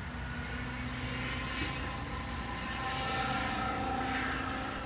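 An approaching diesel freight locomotive: a steady low rumble, with several sustained tones over it, like a distant horn chord, swelling to their loudest about three seconds in.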